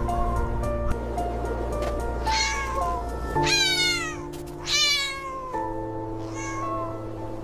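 A cat meowing four times over background music; the meows rise and fall in pitch.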